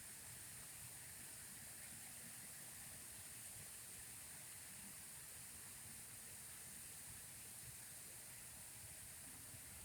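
Faint, steady hiss of running water.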